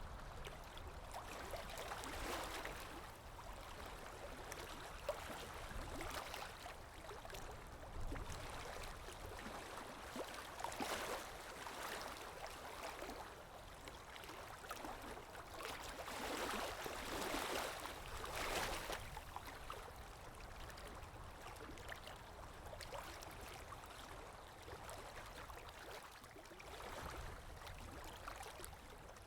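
Water lapping gently against a shore, with wind. The lapping swells and fades every few seconds, with the largest swell about two-thirds of the way in.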